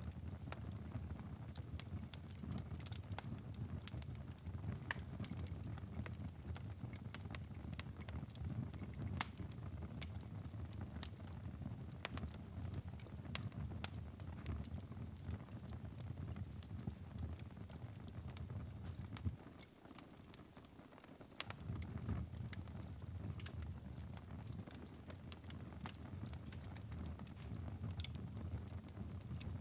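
Wood fire burning in a fireplace: a steady low rumble of flames with frequent sharp crackles and pops. The low rumble drops away for about two seconds around two-thirds of the way through while the crackles go on.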